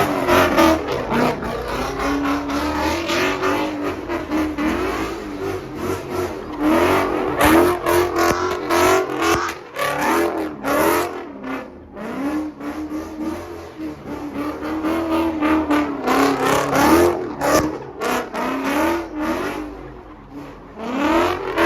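A car engine revved again and again, its pitch rising and falling in repeated surges, from one of the V8 muscle cars at the meet.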